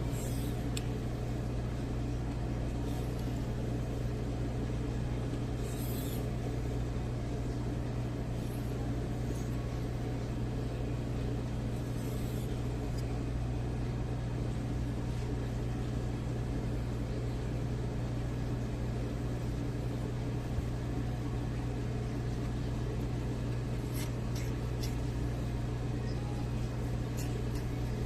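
A steady low mechanical hum, with a few faint brief scrapes or ticks now and then.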